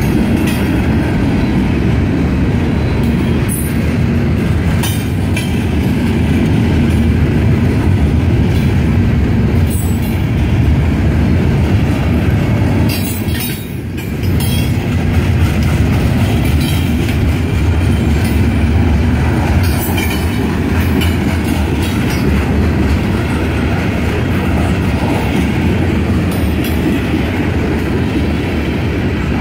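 Freight cars of a long mixed freight train rolling past: a steady heavy rumble of steel wheels on rail, with scattered sharp clicks as the wheels pass over rail joints. The rumble dips briefly about halfway through.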